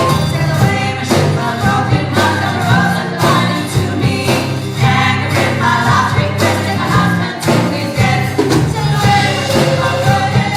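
Live band playing a song, with a steady beat under a melody line.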